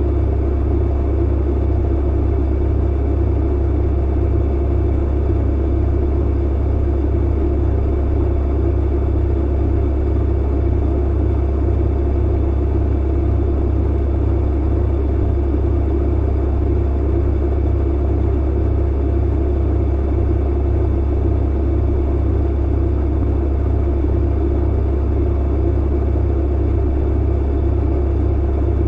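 Clothes dryer running steadily: a deep, even hum and rumble from the drum and motor, with no breaks or thuds.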